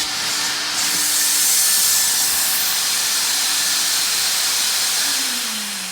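Mytee Lite 8070 hot water carpet extractor running, its vacuum motor making a loud, steady rushing hiss of suction. About five seconds in the motor is switched off, and its hum winds down, falling in pitch as the noise fades.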